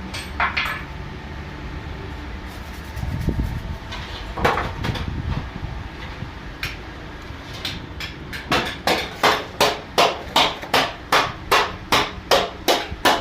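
Hammer blows in a workshop: a few scattered strikes, then a steady run of about two to three blows a second through the second half, over a low steady hum.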